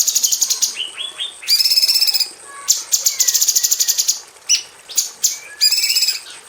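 Female orange-bellied leafbird singing: long runs of very fast, evenly repeated high notes, broken near the start and again past the middle by shorter, lower whistled notes and brief pauses.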